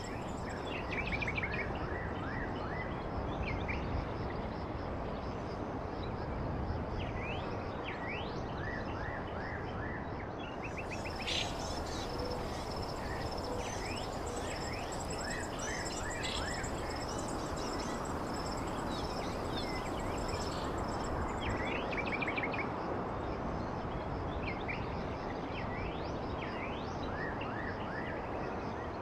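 Small birds chirping, with many short repeated chirps and quick sweeping calls, over a steady background hiss and a thin, steady high-pitched tone.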